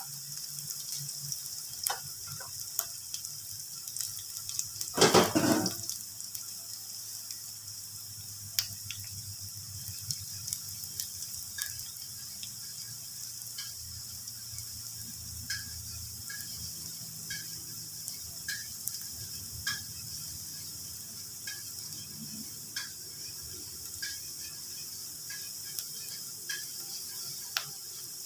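Chopped shallots, garlic and ginger sizzling in oil in a wok: a steady hiss with scattered small pops. About five seconds in, a louder noise lasts about a second.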